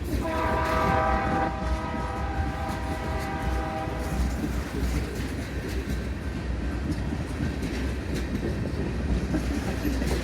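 Diesel freight locomotive air horn sounding, strongest for about a second and a half and fading out by about four seconds in, over the steady low rumble and wheel clatter of a freight train rolling by.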